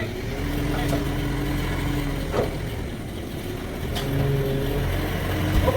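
Sawmill machinery engine running steadily, with its pitch shifting a little, and a few short knocks.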